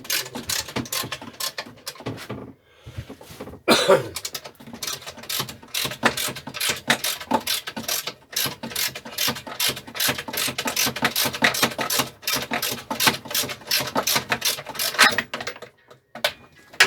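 Socket ratchet wrench clicking in quick, regular strokes as a bolt holding a lawn mower engine to its deck is undone. The clicking breaks off briefly about two and a half seconds in, then runs on and stops near the end.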